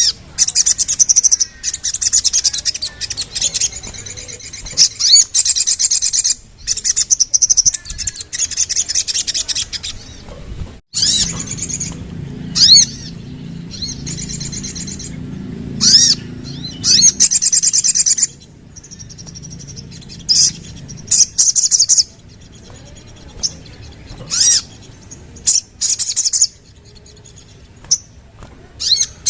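Crimson sunbird (sogon) singing: bursts of fast, high-pitched trilled twittering, lasting a second to a few seconds each and broken by short pauses.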